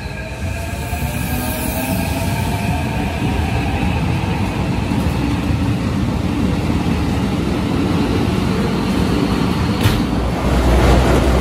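A red Keikyu Line electric train running through the station at speed: wheels rumbling on the rails, with a motor whine rising in pitch over the first few seconds. About ten and a half seconds in, a louder low rumble starts as a second train comes past on the other track.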